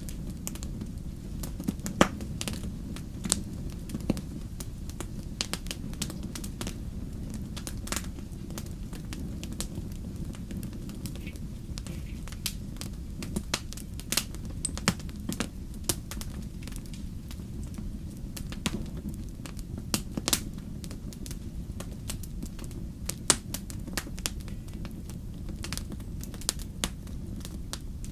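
Campfire burning: a steady low rumble of flames with frequent sharp, irregular crackles and pops from the wood.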